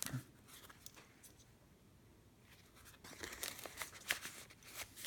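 Paper and card rustling and light clicks as a handmade journal's pages and a journaling card are handled. It is quiet for the first few seconds, then comes a run of short crisp rustles and taps.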